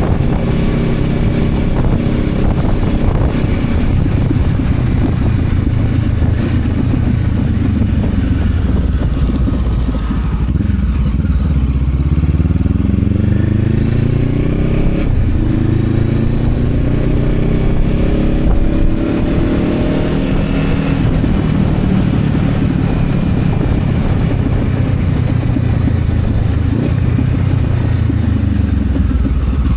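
Honda CB500X's parallel-twin engine running under way, over steady wind rush. The engine note drops about ten seconds in, climbs steadily for several seconds as the bike accelerates, then eases back down.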